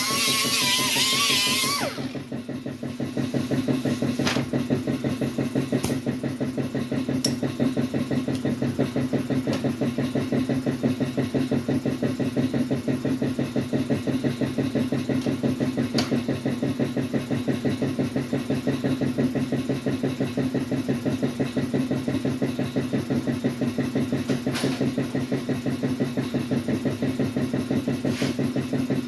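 Guitar music cuts off about two seconds in. Then a piston air compressor runs steadily with a fast, even pulse, and a few faint clicks come over it.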